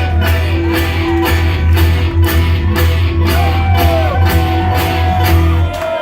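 Live bluegrass band playing, with guitar and a steady beat of about two strokes a second over a held low bass note; the music stops just before the end.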